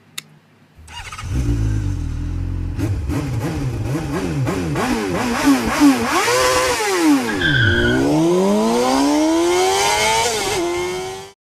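High-revving motorcycle engine sound effect: a low rumble, then a string of quick revs up and down, a sweep that drops low and climbs again, and a long rising rev that cuts off suddenly near the end.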